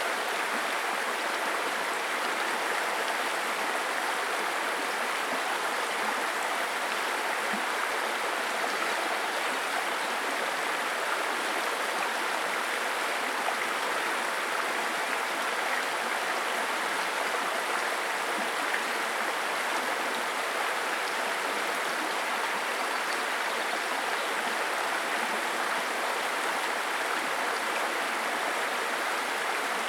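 Small stream babbling and trickling over stones, a steady rush of running water.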